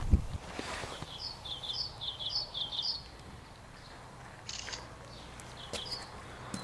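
A songbird singing a quick run of short, high chirps for about two seconds, then a couple more near the end. A single thump comes right at the start.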